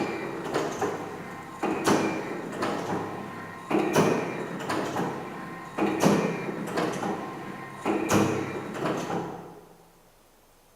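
Motion-activated sound artwork playing: a sharp knock or clack about every two seconds, each followed by ringing. Five strikes in all, then it stops after about nine seconds.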